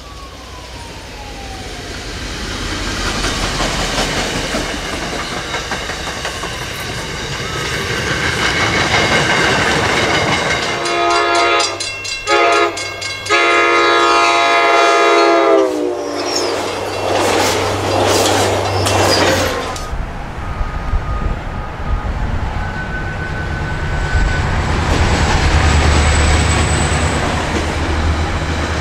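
Commuter trains passing, with diesel locomotive rumble and wheel noise on the rails. A train horn is sounded in several blasts near the middle, the loudest part, and a deep locomotive rumble swells near the end as another train goes by.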